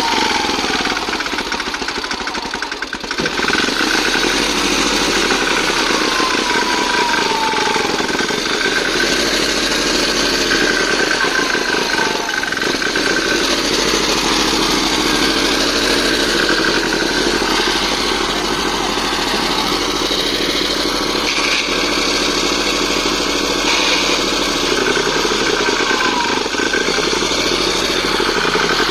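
Tractor engine running steadily, with a brief drop in level about two to three seconds in.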